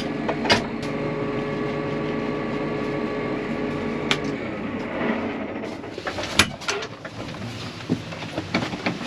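A steady mechanical hum that dies away a little past halfway, with scattered sharp taps throughout that come more often towards the end.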